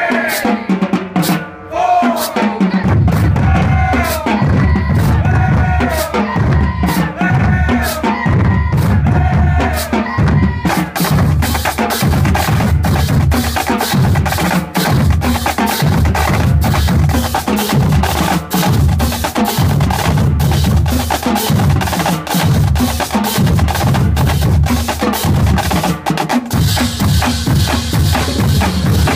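High school drumline playing: snare drums and rolls over low bass-drum hits about once a second, with a pitched melodic line in the first ten seconds or so.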